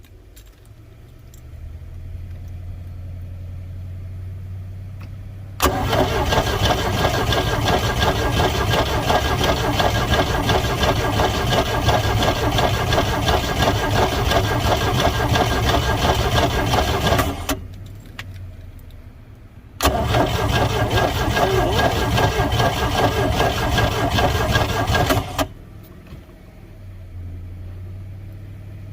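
Boat engine cranked over by its starter twice, a long crank of about twelve seconds and a shorter one of about six, each stopping abruptly without the engine catching: a no-start even with starter fluid. A low steady hum runs between the cranks.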